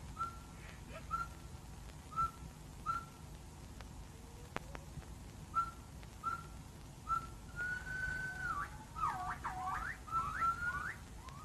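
Jungle bird calling in short clear whistled notes, about one a second. Near the end come a longer held whistle and a quick flurry of rising and falling whistles, over a steady low hum and hiss from an old film soundtrack.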